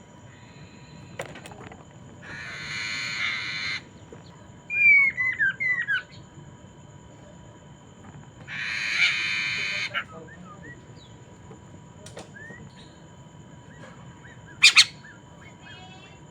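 Poksay mandarin laughingthrush calling: two long, harsh, rasping squawks a few seconds apart, with a quick run of short descending whistled notes between them and a brief sharp call near the end.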